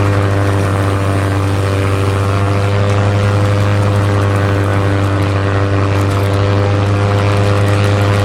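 Toy aeroplane running with a loud, steady droning hum.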